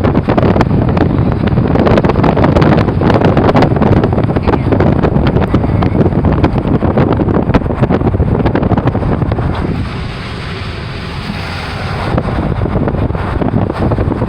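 Heavy wind buffeting the microphone over a steady low rumble, easing briefly about ten seconds in.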